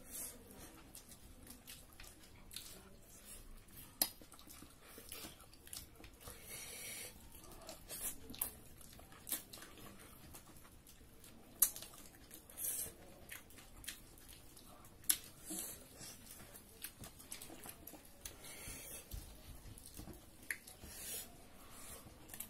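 Close-miked eating of duck curry and rice by hand: chewing, lip smacks and wet mouth noises, with a few sharp clicks scattered through.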